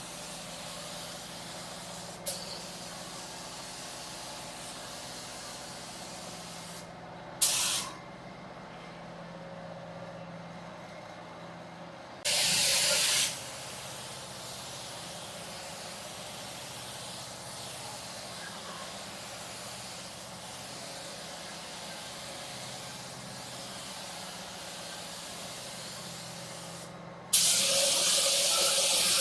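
Paint spray gun spraying car paint in separate loud hissing blasts: a short one, then a second-long one, then a longer one near the end. A steady quieter hiss runs underneath.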